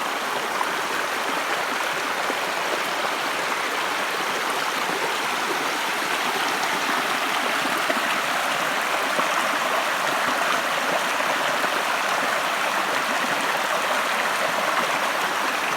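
Steady rush of water from a pond's overflow spilling down as a small waterfall, running off ground saturated by days of rain.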